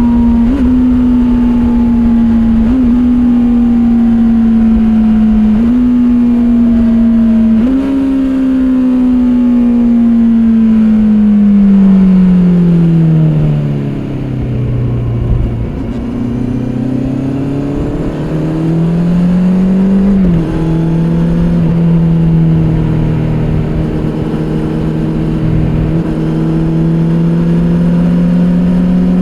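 Kawasaki Z800's inline-four engine and stock exhaust heard from the bike while riding. The engine note makes short jumps in pitch at gear changes in the first eight seconds, then falls for about six seconds as the bike slows. It then rises again under acceleration, drops once at a gear change about 20 seconds in, and holds steady.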